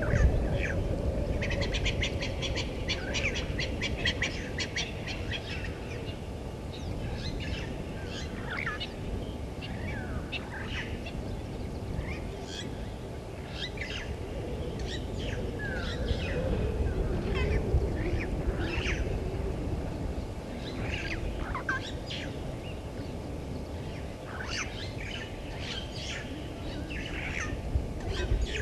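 Wild birds calling: a quick run of chirps in the first few seconds, then scattered short calls, over a steady low rumble.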